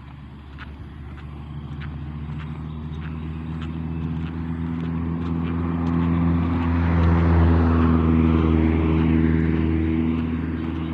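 An engine drawing closer and growing louder, loudest about seven seconds in, then easing off as it passes.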